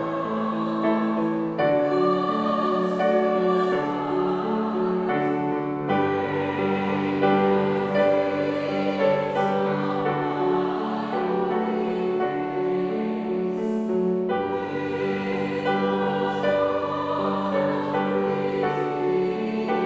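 Classically trained voices singing together in an operatic style, holding long notes, with piano accompaniment.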